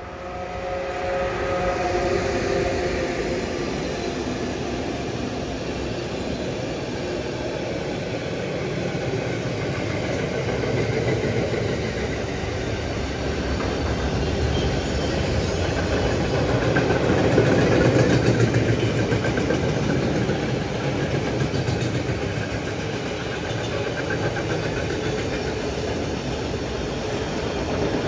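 ÖBB class 1116 Taurus electric locomotive passing with a steady whine in the first few seconds, then a long freight train of loaded car-carrier wagons rolling past: a continuous rumble and clatter of steel wheels on rail, loudest a little past the middle.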